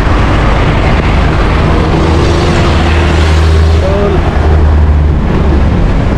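Wind rush on a bicycle-mounted action camera while riding in road traffic, with a motor vehicle's low engine drone growing stronger in the middle and easing off later.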